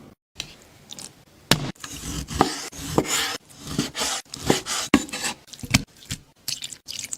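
Crisp food crunching and scraping in a quick, irregular run of about a dozen sharp strokes, starting about a second and a half in and thinning to a few soft ticks near the end.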